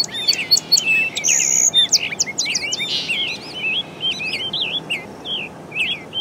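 Birds chirping and calling: many quick, overlapping high chirps and short warbles, thinning out after about three seconds.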